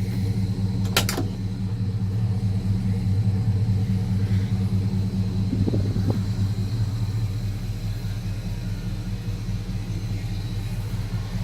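1957 Chevrolet 3100 pickup's engine idling steadily with a low rumble, with a sharp click about a second in.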